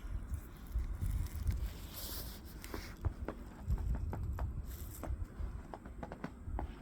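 Footsteps crunching in deep fresh snow, a string of short irregular crunches, over a steady low rumble on the microphone.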